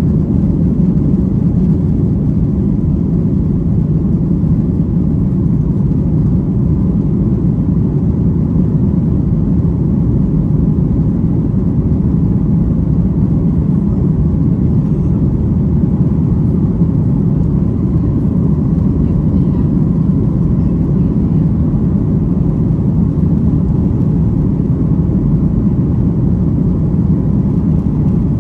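Steady, loud cabin rumble inside a Boeing 737-800 during the climb after takeoff: its CFM56-7B turbofan engines at climb power and the airflow over the fuselage, a deep even roar with no changes.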